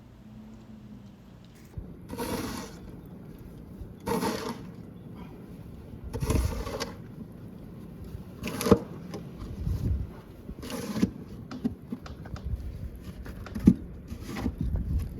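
A series of noisy scrapes or crunches, one about every two seconds, six or so in all, each lasting under a second.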